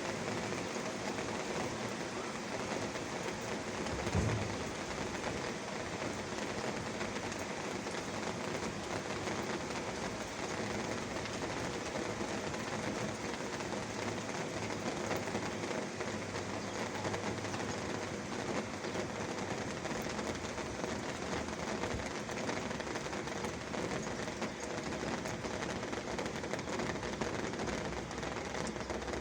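Steady rain falling and pattering on surfaces, with a single low thump about four seconds in.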